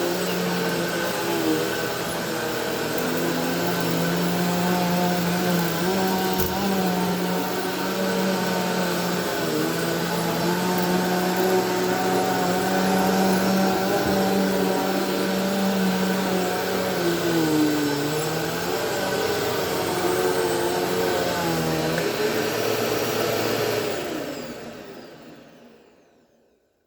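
Bissell PowerForce Helix Turbo Rewind upright vacuum running steadily on carpet, its motor pitch dipping and wavering now and then. Near the end it is switched off and winds down to silence over a couple of seconds, finishing the job.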